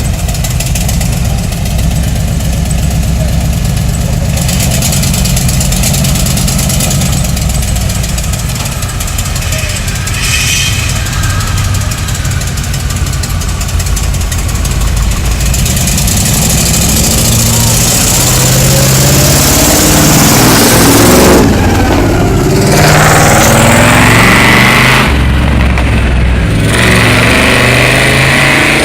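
A school-bus monster truck's engine running, with its pitch rising and falling as it revs; it is loudest and revving hardest about two-thirds of the way in.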